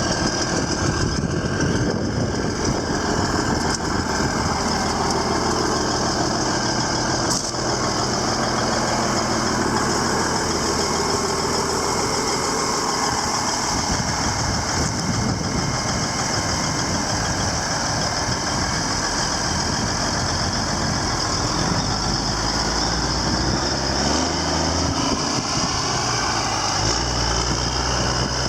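Ford LTL 9000 truck tractor's diesel engine running steadily at idle, with the engine speed shifting a few times in the last several seconds. A single brief click sounds about seven seconds in.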